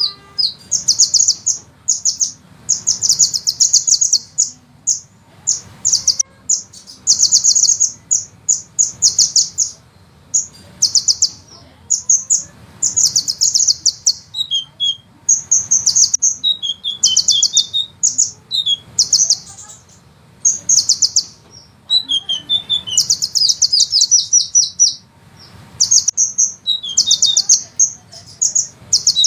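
A sunbird singing rapid, high-pitched rolling trills in repeated bursts of a second or two, with short gaps between them and now and then a few lower, falling notes.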